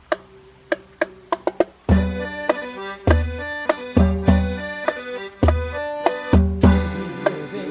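Instrumental intro of a calypso-style Sinhala song played by a band: light percussion ticks at first, then about two seconds in the full band comes in with bass, sustained chords and regular drum hits.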